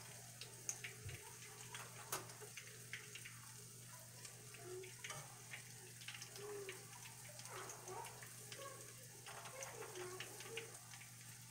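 Meatballs frying in oil in a cast-iron skillet: faint sizzling with scattered crackles, and light clicks of a metal spatula turning them in the pan.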